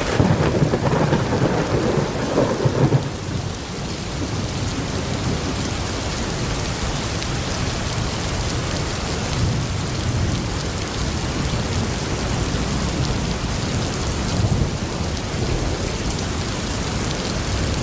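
Steady rain falling, with a louder low rumble over the first three seconds.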